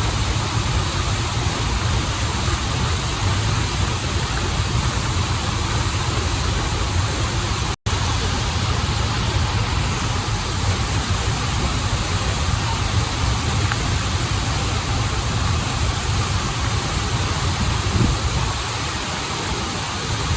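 Waterfall and stream water rushing in a steady, even roar, broken once by a split-second gap of silence about eight seconds in.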